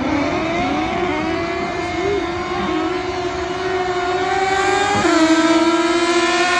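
Naturally aspirated Honda K-series four-cylinder engines pulling hard at full throttle, pitch climbing steadily through a gear. There is a quick shift about five seconds in, after which the pitch climbs again, getting louder as the cars approach.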